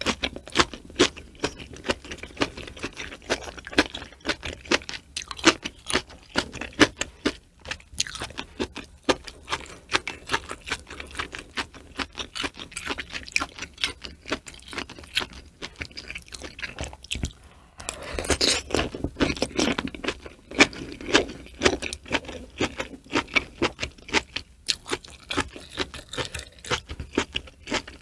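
Close-miked wet chewing and mouth smacking of a person eating hot cow udder and vegetables from a hotpot, a dense run of small clicks. It grows louder and noisier for a few seconds about two-thirds of the way through.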